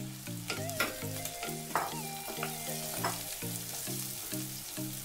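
Chopped tomatoes and onions sizzling in hot oil in a non-stick kadai while a wooden spatula stirs them, with a few knocks and scrapes of the spatula against the pan.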